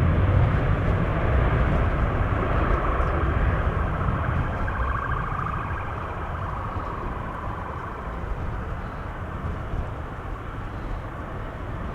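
Jet airliner engines, a steady rushing noise with a faint whine, fading gradually as the aircraft moves away.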